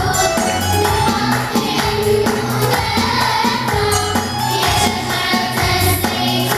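Music: a choir singing an Arabic nasheed over a backing track with percussion and a steady beat.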